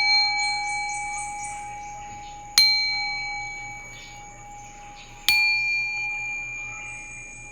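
A singing bowl struck twice, about two and a half seconds apart. Each strike rings out in several steady overlapping tones that fade slowly, and the ring from a strike just before is still sounding at the start. Brief high tinkling can be heard about half a second in.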